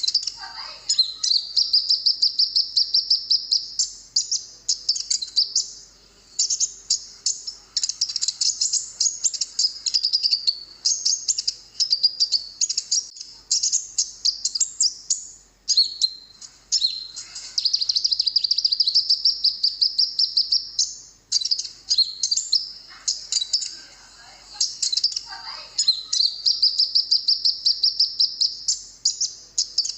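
Olive-backed sunbird (kolibri ninja) song, played as a tutor recording for caged birds. It runs in long phrases of rapid, high-pitched twittering trills, broken by brief pauses.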